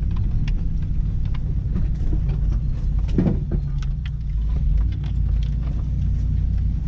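Truck engine rumbling steadily as it drives off-road through the woods, with scattered sharp snaps and knocks throughout.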